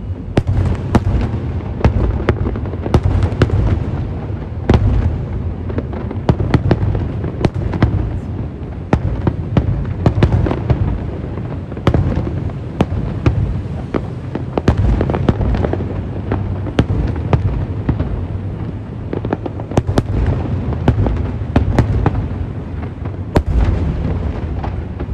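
Aerial fireworks display: many sharp bangs and cracks going off in quick, irregular succession over a continuous low rumble of booms.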